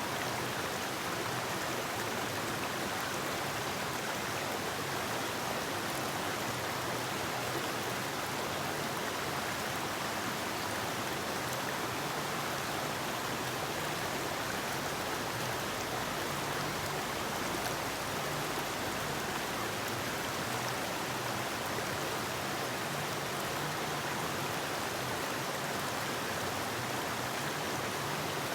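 Forest river water rushing steadily over rocks, an even, unbroken rush.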